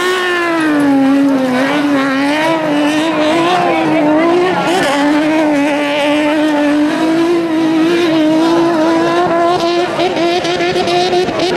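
Engine of a light 4x4 competition car held at steady high revs, the pitch wavering slightly as it spins donuts.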